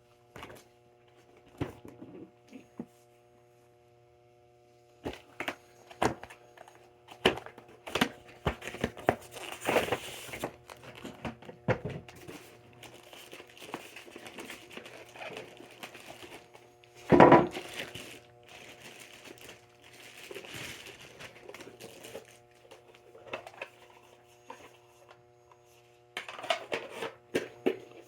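Lionel O-gauge coal accessory handling model coal: irregular rattling and clattering of small pieces in bursts, loudest about two-thirds of the way through, over a steady electric hum.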